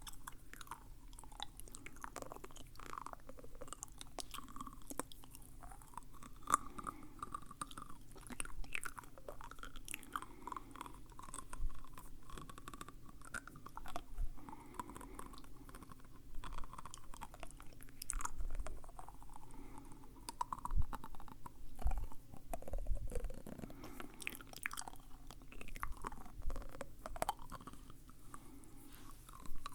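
Close-miked wet mouth sounds: irregular lip and tongue smacks and clicks, like chewing.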